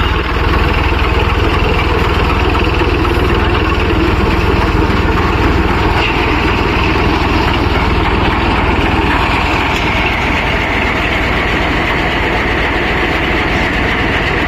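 Massey Ferguson tractor's diesel engine running steadily, driving a thresher, with the engine and threshing machinery making one continuous loud drone. A thin high tone in the machinery grows a little stronger about ten seconds in.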